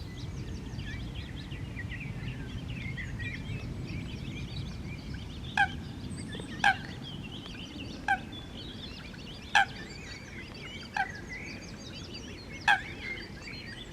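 Small birds singing in a busy chorus of quick chirping phrases over a low outdoor rumble. From about five seconds in, a short sharp sound comes roughly every one to one and a half seconds, six times, louder than the song.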